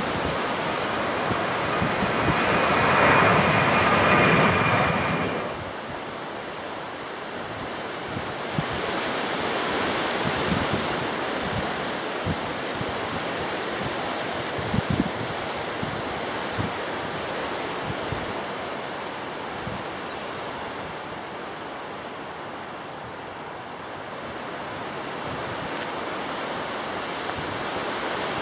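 Strong gusty wind buffeting the microphone: a steady rushing with scattered low thumps, loudest for a few seconds near the start.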